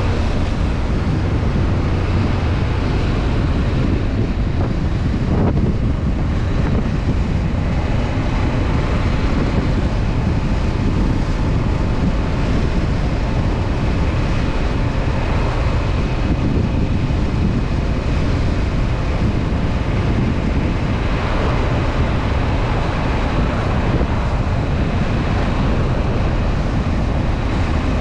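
Honda CB500F's parallel-twin engine running steadily under way, mixed with steady wind noise on the microphone.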